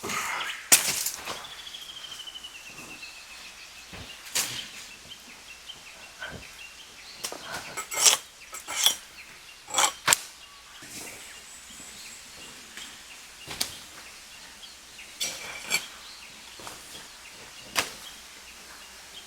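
Irregular sharp snaps and knocks of wooden sticks and branches being broken and handled, a dozen or so, with the loudest about a second in and around eight and ten seconds in. A short falling whistle sounds early on, under the snaps.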